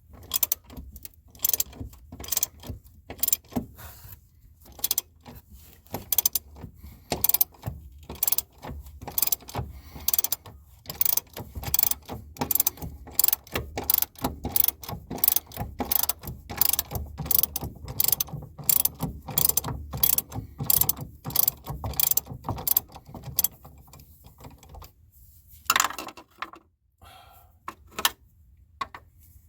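Hand ratchet wrench clicking in quick, repeated strokes as the strut's upper mount nuts are unscrewed. The steady clicking stops about three-quarters of the way through, followed by a few scattered clicks and one louder knock.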